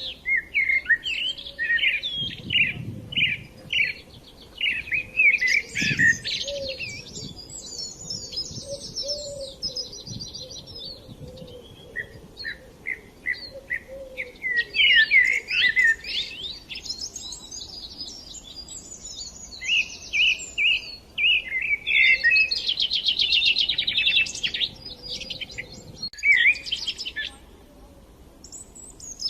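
Small birds chirping and singing, several at once, in quick high chirps and fast trills, with short lulls now and then.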